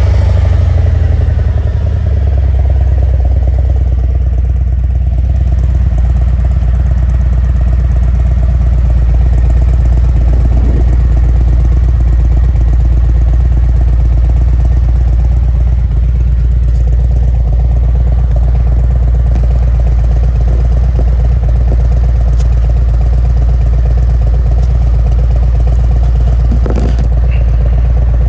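Harley-Davidson Road Glide Special's Milwaukee-Eight 114 V-twin idling steadily through a Khrome Werks 2-into-2 exhaust with louvered baffles in the mufflers, engine warm.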